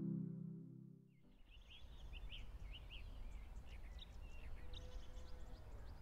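Soft ambient music fading out in the first second. Then small birds chirping and twittering outdoors over a steady low rumble.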